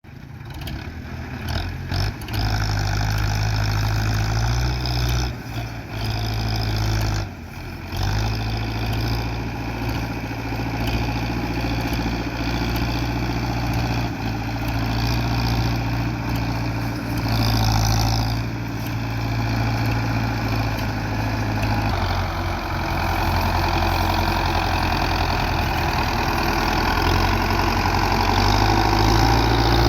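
Belarus 510 tractor's diesel engine running hard, pulling a loaded trolley that is stuck. The engine note holds steady with a few brief dips early on, and shifts in pitch twice as the throttle changes.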